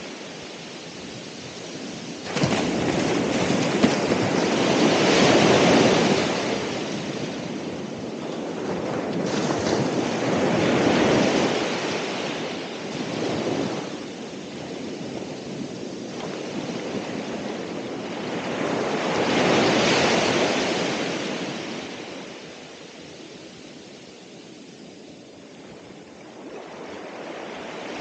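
Ocean waves breaking on the shore and washing back, the surf swelling and ebbing in slow surges, with a sudden crash about two seconds in and a quieter lull near the end. There is some wind noise on the microphone.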